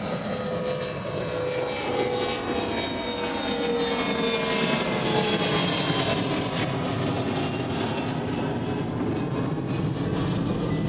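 Airliner's engines passing, a steady rush with a whine that slowly falls in pitch as the plane goes by.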